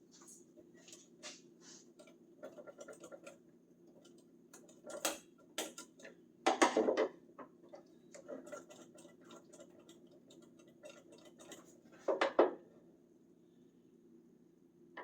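Screwdriver prying at a clipped-on part, with small metallic clicks, taps and scrapes throughout and louder scraping clatters about five, seven and twelve seconds in.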